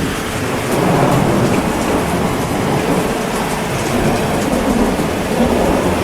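Steady heavy rain, with a low rumble of thunder swelling about a second in and rolling on.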